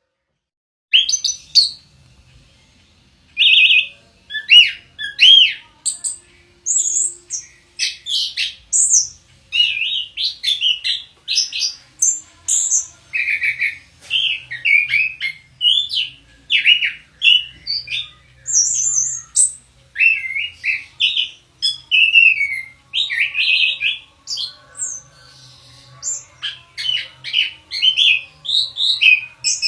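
Orange-headed thrush (anis kembang) singing a long, loud, varied song of short whistled and chattering phrases, starting about a second in and running on without pause.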